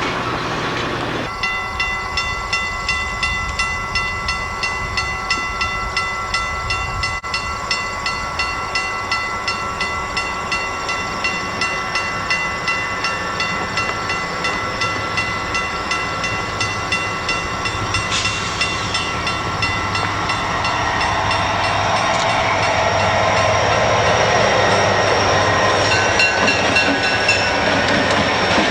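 Freight train on the move, with a regular clatter about twice a second over a steady ringing tone. The noise of the train grows louder in the last third.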